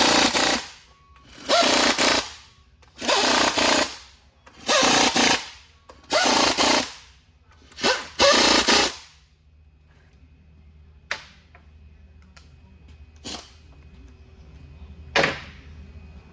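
Air impact wrench run in about six bursts of roughly a second each, rattling as it drives fasteners on a truck transmission, followed by three sharp knocks spaced a couple of seconds apart.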